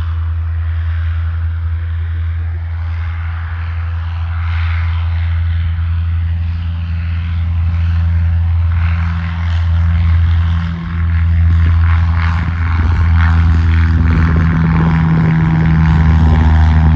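Propeller engine of a light aircraft droning steadily, growing a little louder toward the end as it comes closer.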